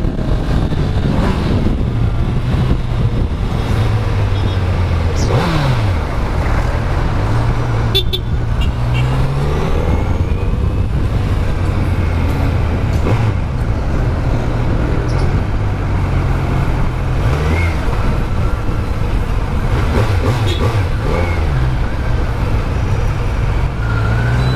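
Kawasaki Z900's inline-four engine running through its stock exhaust while riding, its low note rising and falling again and again as the throttle is opened and closed.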